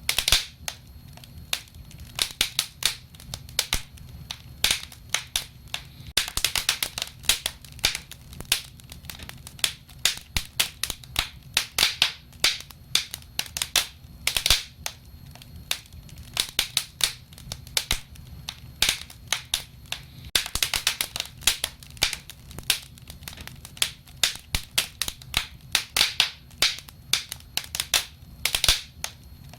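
Wood fire burning, with frequent sharp crackles and pops in irregular clusters over a low steady rumble of flame.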